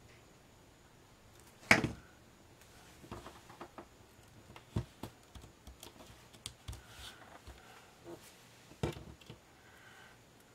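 Light clicks, taps and rustles of paper-craft pieces being handled on a work table, with two louder knocks, about two seconds in and near the end, as items are set down.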